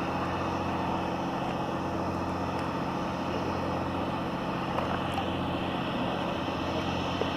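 An engine running steadily at a constant speed, a low even drone with no change in pitch, over a constant background hiss.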